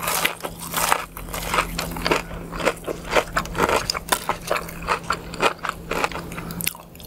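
Close-miked crunchy biting and chewing of crispy fried food, a rapid, irregular run of crunches, over a faint steady low hum.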